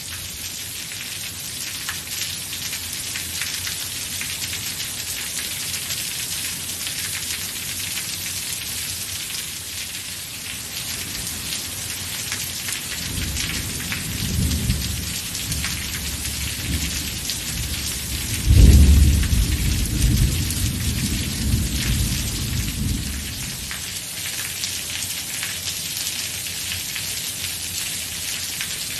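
Steady rain falling, with a roll of thunder in the middle. A low rumble builds up, breaks into a sudden loud clap, then rumbles on for a few seconds and fades out.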